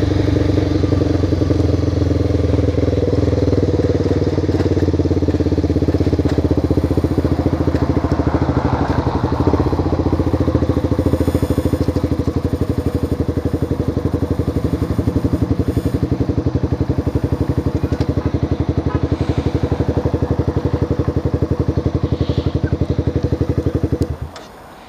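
Motorcycle engine running at a steady idle, a fast even pulsing without revving, then switched off near the end, where the engine note cuts out.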